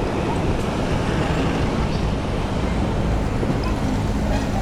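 Steady rush of wind on the microphone mixed with road traffic noise, with a low engine hum coming in about three and a half seconds in.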